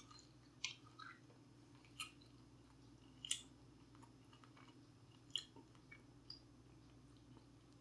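Quiet close-up chewing, with scattered short wet mouth clicks and smacks, one louder about three seconds in.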